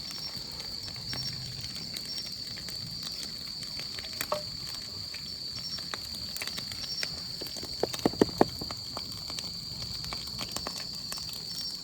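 Chicken wing pieces deep-frying in oil over a campfire: a steady sizzle with scattered pops and crackles. A quick run of four louder knocks comes about eight seconds in.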